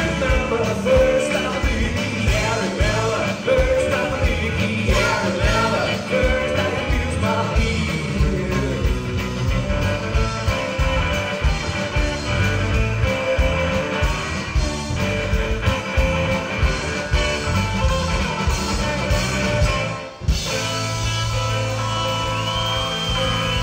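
A live rock and roll band plays a song with a singer, electric guitar, bass and drums. About 20 seconds in the band stops for an instant, then comes back on a held, ringing chord.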